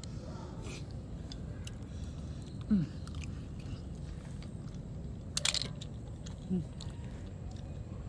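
A person eating clams close to the microphone: chewing with a few sharp crunches and clicks, and a couple of short falling hums of the voice.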